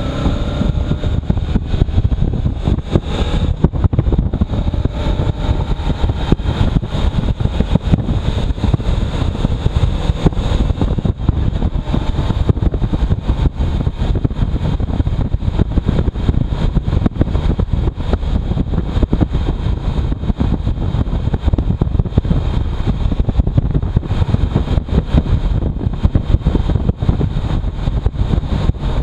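Motorcycle riding at road speed, its engine note rising briefly at the start, under heavy wind buffeting on the microphone.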